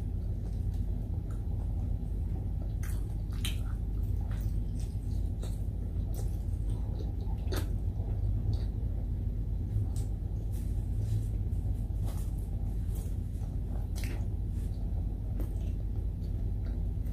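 Close-up eating sounds: wet chewing and small mouth smacks and clicks, scattered a few each second, as fried liver and rice are eaten by hand. Under them runs a steady low hum.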